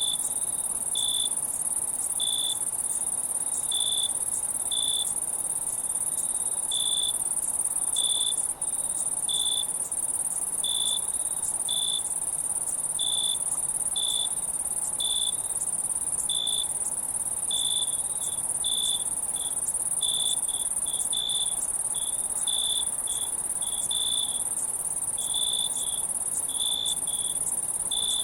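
Crickets: a steady high-pitched insect drone with short chirps at one pitch about once a second, coming faster in the second half.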